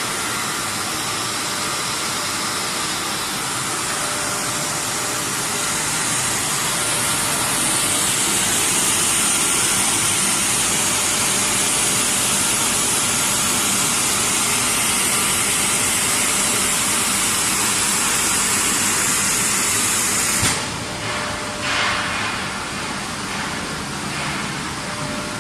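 Vertical automatic glass washing machine running: a steady machine noise under a strong high hiss. The hiss grows louder about six seconds in and cuts off suddenly about twenty seconds in, leaving a lower, uneven running noise.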